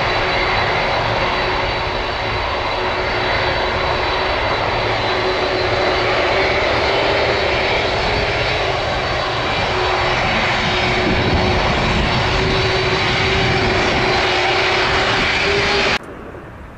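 Jet airliner engines running loud and steady: a broad rush with a steady high whine on top. It cuts off abruptly shortly before the end.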